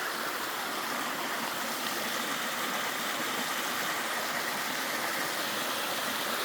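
Mountain stream running over and between rocks, a steady rushing of water.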